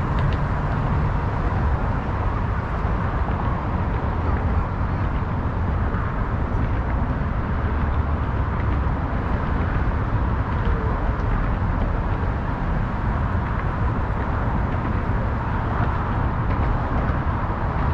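Steady outdoor city ambience: a continuous, even rumble of road traffic with no single vehicle standing out.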